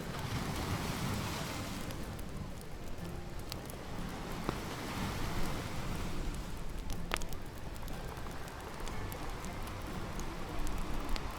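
Bonfire crackling with scattered pops, one sharp pop about seven seconds in, over the hiss of ocean waves washing in and out.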